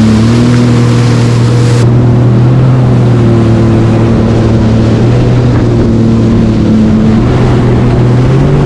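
Jet ski engine running at steady high revs under way, its pitch holding nearly level. A loud rushing hiss sits over it for the first two seconds.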